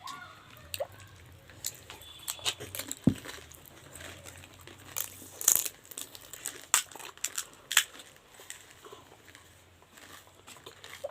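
Pani puri being eaten: scattered short crunches and clicks of crisp puris breaking and being chewed.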